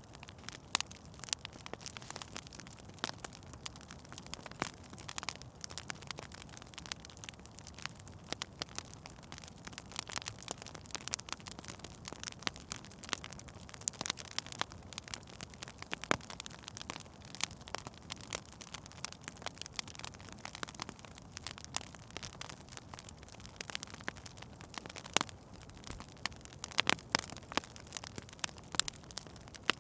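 Wood fire in a fireplace crackling, with frequent sharp pops over a soft steady hiss; a few louder pops come near the end.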